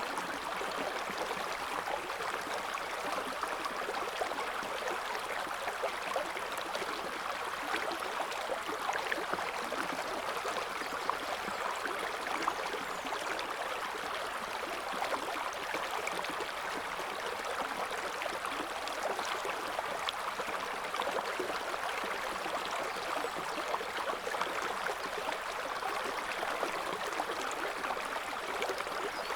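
River water flowing and babbling over stones, a steady rush with a fine, trickling texture.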